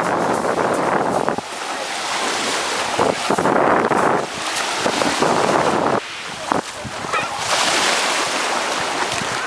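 Small sea waves washing against the shore, with wind buffeting the microphone in gusts that come and go abruptly.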